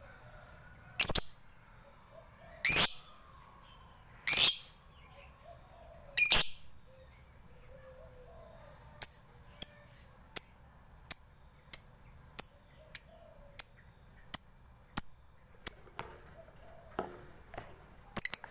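Lovebird calling: four loud, shrill, short chirps in the first six seconds. These are followed by a steady run of about a dozen short, sharp, high ticks ('ngetik'), roughly three every two seconds.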